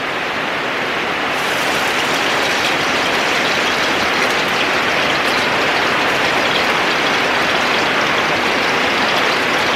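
Heavy rain pouring steadily, a loud even hiss that turns sharper about a second and a half in.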